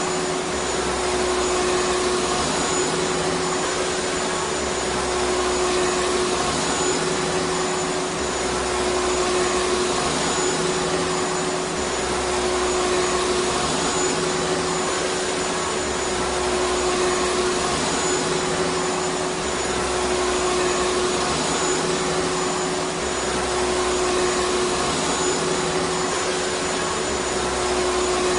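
Vacuum cleaner motor running steadily: an even rushing of air with a constant whine, and a low rumble underneath that swells and fades every few seconds.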